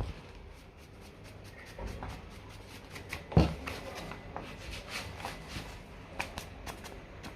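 Handling noises of parts and tools during motorcycle front-end repair: scattered light clicks and ticks, with one louder knock about three and a half seconds in.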